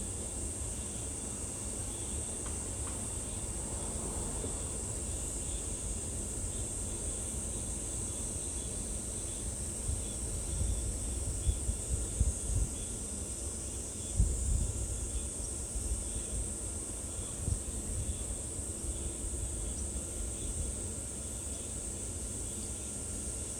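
A steady high-pitched insect chorus with a faint, evenly repeating chirp under it. Low rumbles on the microphone come and go about halfway through.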